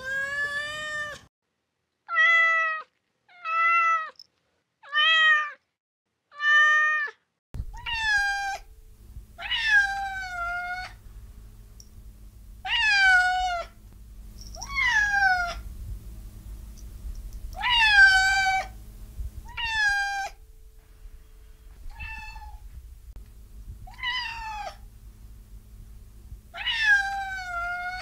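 Kitten meowing over and over: first about five short meows held at an even pitch, with silence between them. Then, from about seven seconds in, longer meows that fall in pitch come roughly every two seconds over a low steady hum.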